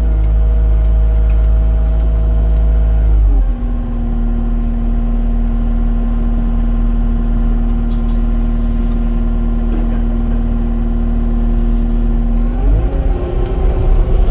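A heavy construction machine's diesel engine runs steadily at working speed. A few seconds in it drops to a lower, steady speed and holds there, then ramps back up near the end.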